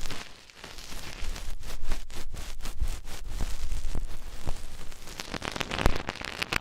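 Ear-cleaning tools scraping and rubbing against an ASMR ear microphone up close, with dense scratching and crackling and many quick clicks.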